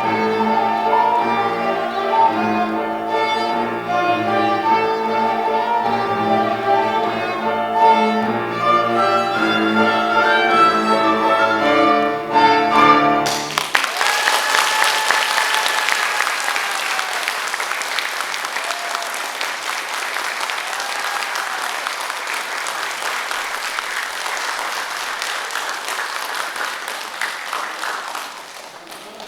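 Violin and cello playing the last bars of a piece, ending abruptly about 13 seconds in, followed by audience applause that fades out near the end.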